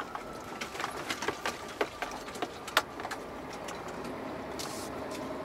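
Scania truck heard from inside the cab, engine running steadily, with a scatter of sharp, irregular clicks and knocks in the first half. A steady engine tone strengthens near the end.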